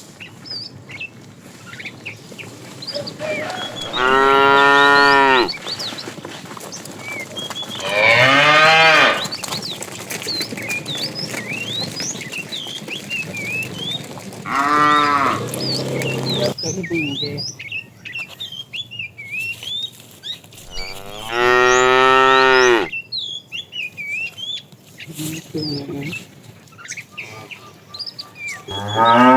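Cow mooing: four long, loud moos a few seconds apart, and a fifth starting near the end. It is a fat cow calling to a female. Faint chirps sound between the moos.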